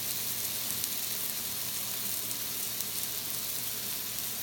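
Chicken tenders frying in butter in a skillet: a steady sizzling hiss with faint scattered crackles.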